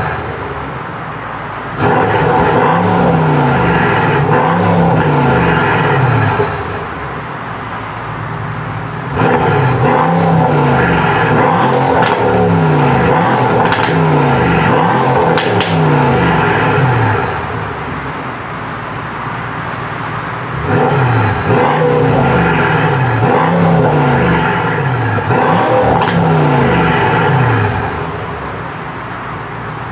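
Mercedes-AMG S63's 4.0-litre twin-turbo V8 heard at the exhaust tailpipes, revved hard in three long spells and dropping back to idle between them. A few sharp cracks come around the middle.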